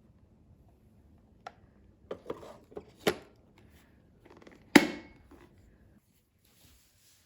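A few sharp clicks and knocks of handling, the loudest nearly five seconds in.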